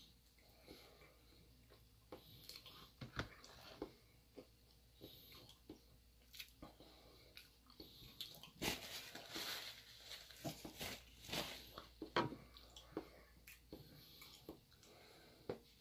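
Faint, close-up chewing of a mouthful of frosted sponge cake roll: a run of small wet mouth clicks and smacks, thickest about halfway through.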